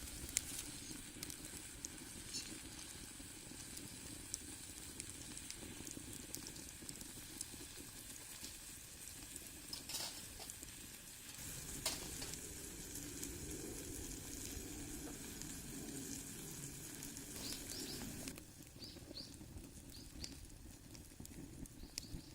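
Food sizzling in a cast-iron skillet over a wood fire, a steady hiss with scattered small crackles. The sizzle drops away sharply near the end.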